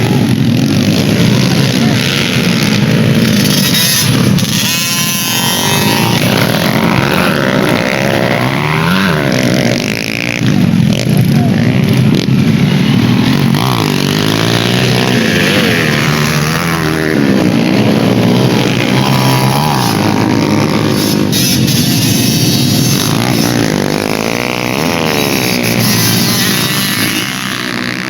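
Several dirt bike engines revving hard at once. Their pitch rises and falls again and again as the bikes accelerate and shift.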